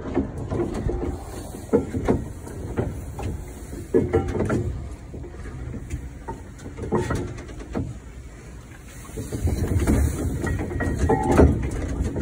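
1914 Fowler showman's steam traction engine running while it manoeuvres, a low rumble with irregular clanks and knocks and some steam hiss, the rumble getting louder over the last few seconds.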